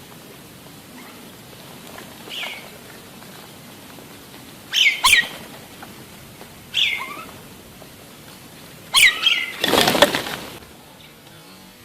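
Common myna giving short, sharp calls that slide downward, about six of them spread out, followed about ten seconds in by a loud burst of wing flapping.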